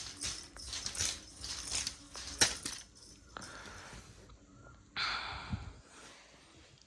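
Rustling and swishing strokes, a feather toy wand being flicked over bedding, followed by two breathy hissing huffs.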